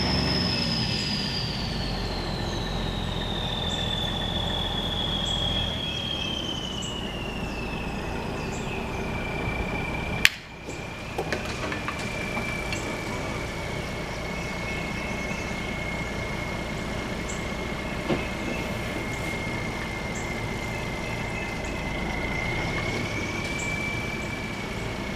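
Well-drilling rig running, a steady machine noise with a high whine that falls in pitch over the first several seconds and then holds steady. A sharp click about ten seconds in.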